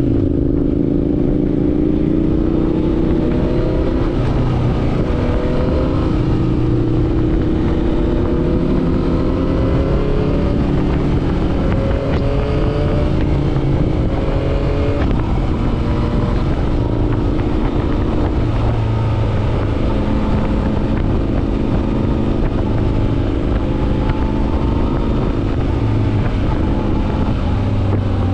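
Motorcycle engine running under way at road speed, its pitch slowly rising and easing back with the throttle, over a steady rush of wind and road noise.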